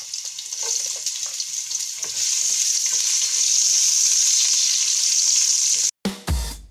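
Sliced ginger sizzling in hot oil in a pot, stirred with a wooden spatula with faint scraping ticks; the sizzle grows louder about two seconds in. Music cuts in abruptly near the end.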